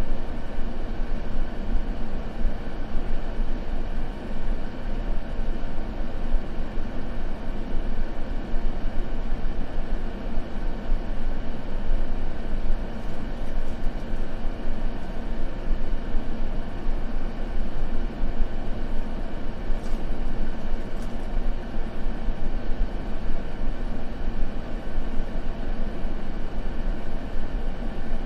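Continuous steady noise for sleep masking, a deep rumbling hiss that is strongest in the bass and thins out toward the treble, unchanging throughout with no crackle.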